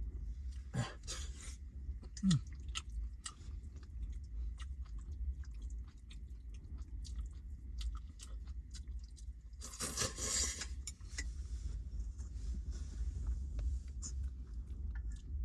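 A person chewing and eating mutton close to the microphone, with many small clicks and a brief rustle about ten seconds in, over a steady low rumble of strong wind.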